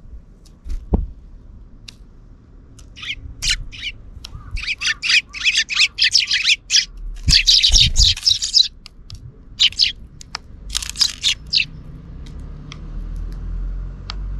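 Sparrows chirping: a flurry of short, quick chirps starts about three seconds in, packs densest in the middle, then thins out. There are a few low thumps, one near the start and two in the middle.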